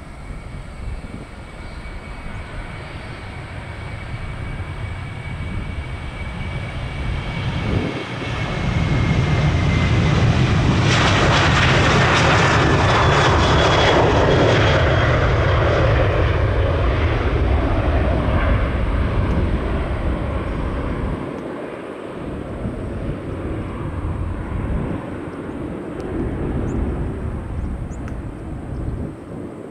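Jet airliner's engines passing: a high whine slowly falls in pitch while a deep rumble builds to its loudest about halfway through, then fades.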